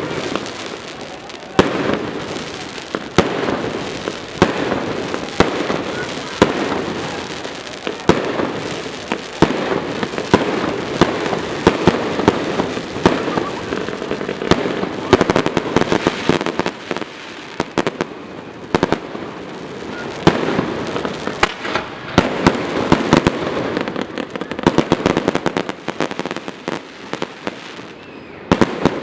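Fireworks going off: a continuous run of sharp bangs and crackling, with dense rapid volleys of cracks about halfway through and again near the end.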